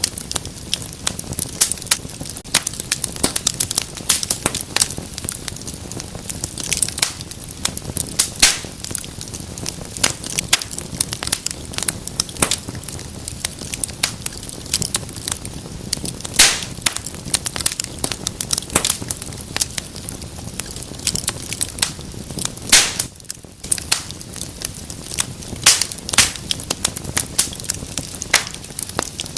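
Wood fire burning in a fireplace: dense, irregular crackles and sharp pops over a steady low hiss of flame.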